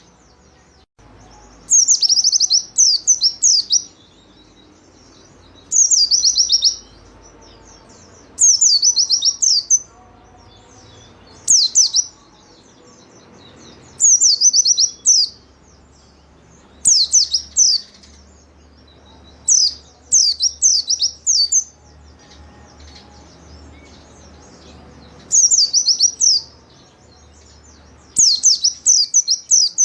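White-eye (pleci) singing its lively 'gacor' song: short bursts of rapid, high, downward-slurred notes, each about a second long, repeated every few seconds.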